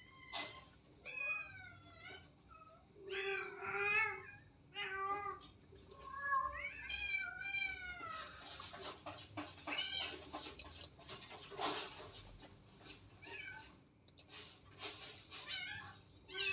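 Domestic cat meowing repeatedly, about nine calls with short gaps between them, each call bending up and down in pitch.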